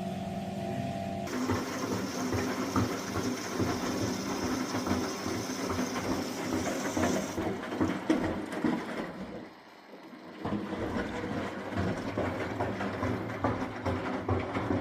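Miele W423 front-loading washing machine running a wash: the drum turns with irregular low knocking and sloshing under a mechanical hum. It stops for about a second near the middle, then starts turning again, as the drum reverses direction.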